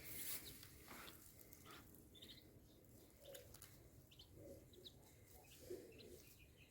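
Faint peeping of ducklings: short high chirps scattered throughout, with a few soft low calls from adult birds.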